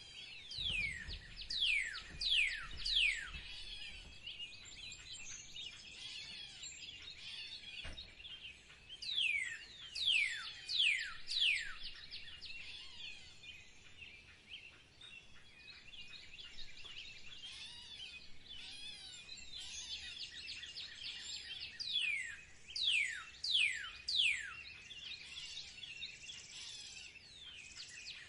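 Outdoor chorus of songbirds chirping, with one bird repeatedly giving runs of three or four loud, sharply falling whistles that return several times.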